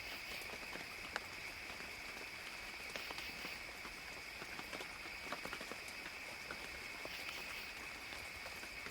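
Rainy forest ambience: a steady, even hiss of gentle rain under a steady high-pitched hum, with scattered drips and taps of raindrops throughout.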